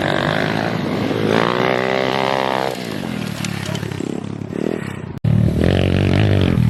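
Pit bike engine revving: its pitch climbs and falls back between about one and three seconds in. After an abrupt cut near the end, the engine is running loudly again.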